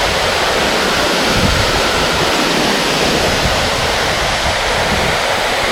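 Small creek waterfall with water rushing steadily, a loud, even hiss of falling water.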